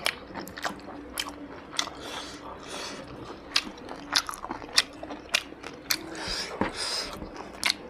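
A person chewing a mouthful of rice and mutton close to the microphone: wet smacking of the mouth with sharp, irregular clicks, one or two a second.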